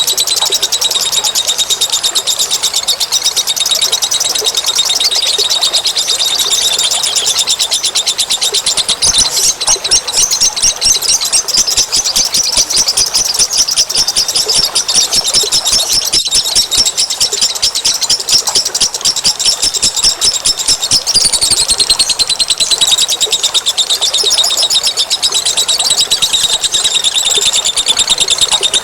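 Dense, continuous high-pitched bird chattering and rapid trills, with many fast repeated notes overlapping throughout. A bird-lure call recording, with a momentary break about sixteen seconds in.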